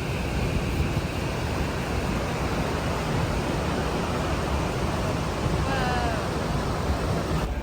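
Steady rushing roar of falling water and spray at Niagara Falls, with wind on the microphone, heard from the tour boat. A brief high call with gliding pitch cuts through about six seconds in.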